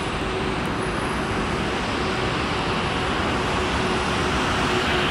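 An electric locomotive hauling a passenger train rolls into the station track, its running noise growing steadily louder, with a steady hum held through it.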